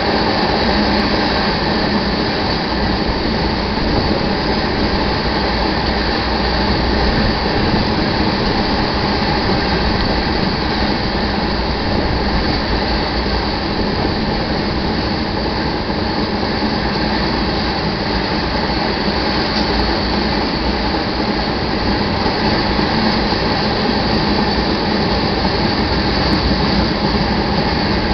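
Iron ore train's cars rolling past, steel wheels on rail in a steady, unbroken noise that holds an even level throughout.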